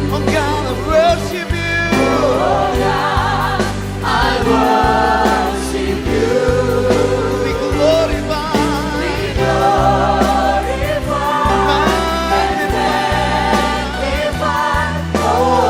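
Christian worship song performed by singers with a band: voices held with vibrato over a steady bass line.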